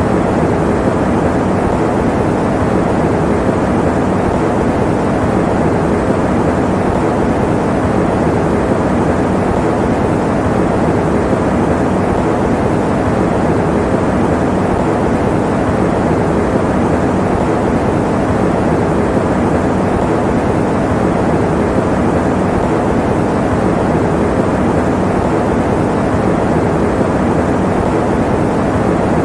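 Electric fan running steadily: a constant, even rushing noise, deep rather than hissy, that never changes.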